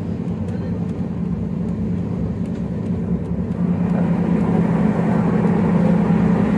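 Running noise of a moving passenger train heard inside a sleeper coach: a steady rumble with a constant hum, growing louder about halfway through.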